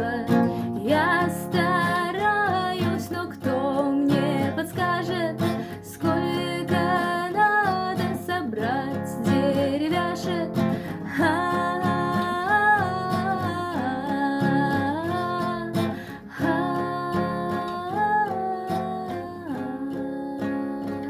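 Acoustic guitar strummed steadily under a woman's singing voice carrying a gliding melody.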